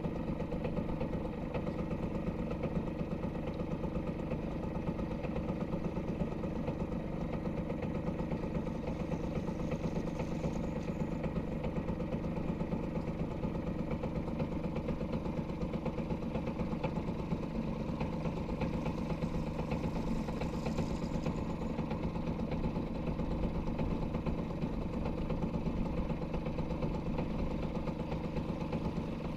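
Small boat engine running at a steady idle, an even low mechanical hum with a fast flutter.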